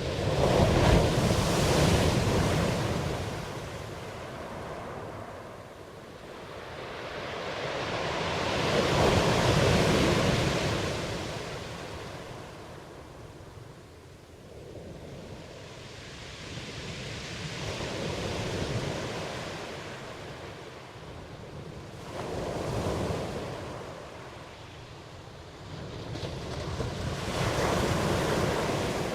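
Ocean waves breaking and washing up, rising and falling in slow swells about every five to nine seconds.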